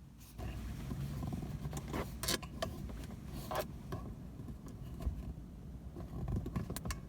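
Handling noise as a car accessory is fitted into place: scattered clicks, knocks and scrapes over a low rumble.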